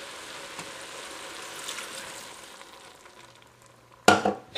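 Canton noodles sizzling in a hot stainless steel pot as chicken stock hits the bottom; the sizzle dies down after about three seconds. Near the end, metal tongs clack sharply against the pot twice.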